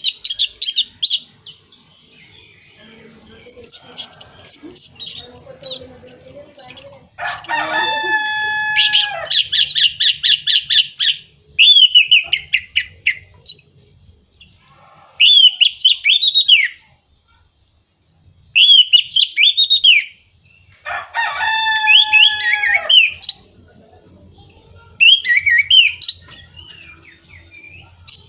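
Orange-headed thrush singing a varied song: loud phrases of rapid trills and down-slurred whistles, separated by short pauses of a second or two.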